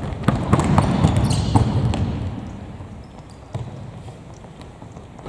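Sounds of play in a ball match: a cluster of ball thuds and footsteps with a low crowd-like rumble, loudest in the first two seconds, then fainter scattered knocks.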